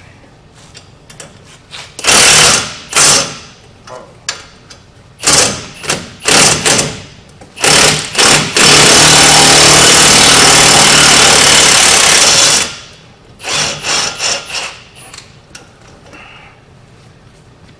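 Impact gun hammering on a truck's wheel hub: several short bursts, then one long run of about four seconds, then a few brief blips.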